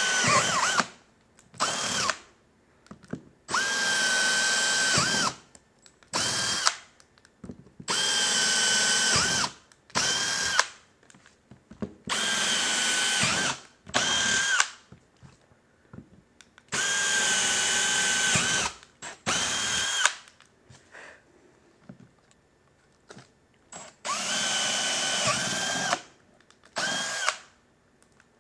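Power drill boring holes into a painted motorcycle saddlebag. It runs in about six bursts of one to two seconds with a steady high whine, each burst followed by a quick short blip of the trigger.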